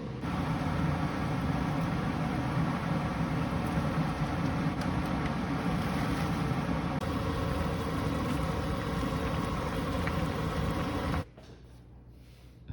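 Steady whirring of a running machine, like a fan or motor, which cuts off suddenly about eleven seconds in.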